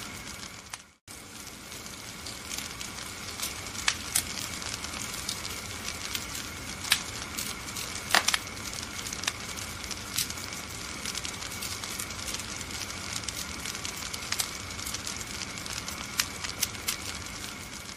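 Wood fire crackling in a fireplace: a steady hiss with frequent sharp, irregular pops. About a second in the sound briefly drops out and comes back.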